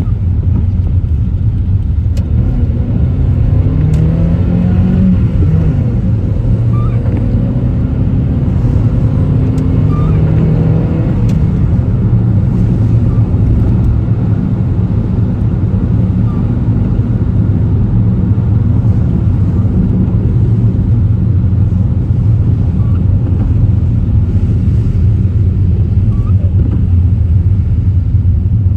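A car being driven: a steady low rumble of engine and road noise. The engine note rises and falls twice in the first half, as it accelerates and eases off.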